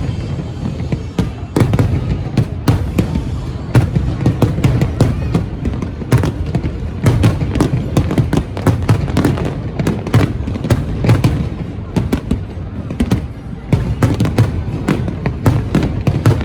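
Large aerial fireworks display: rapid, irregular bangs and booms with crackles, one after another without pause, over music.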